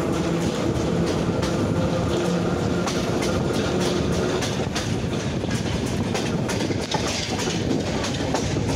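A train in motion, heard from aboard: a steady rolling rumble with wheels clicking over rail joints, and a steady hum that fades out about halfway through.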